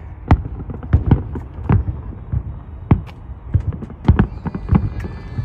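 Aerial fireworks shells bursting, a quick irregular run of booms and bangs, about a dozen in the span.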